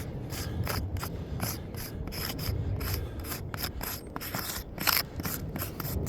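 Irregular gritty scraping and rubbing, broken by quick uneven clicks, with a slightly louder scrape about five seconds in.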